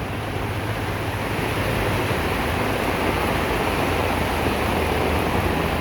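Heavy monsoon rain pouring down, a steady dense hiss.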